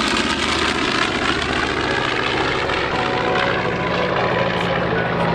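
North American B-25 Mitchell bomber's twin Wright R-2600 radial engines running in flight, a steady loud propeller drone.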